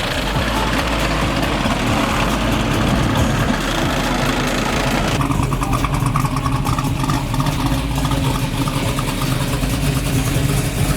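A car engine running loud at close range. About five seconds in, a broad hiss drops away, leaving a low, lumpy idle rumble.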